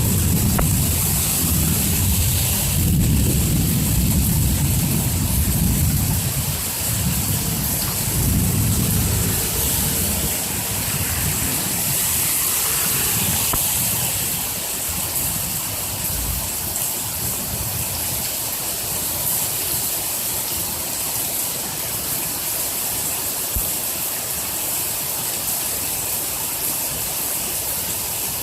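Heavy rain falling steadily, with a low rolling rumble of thunder that fades away over the first ten seconds or so.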